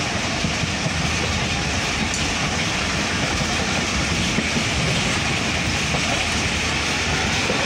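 Pak Business Express passenger coach running at speed, its wheels making a steady rumble and rush of track noise over the rails, heard at the coach window.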